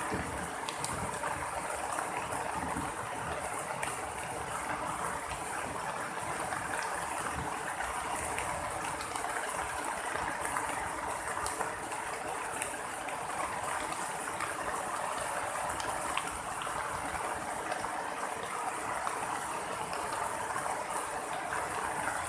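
Heavy rain falling steadily in a tropical downpour, an even hiss with scattered small ticks of drops hitting nearby surfaces.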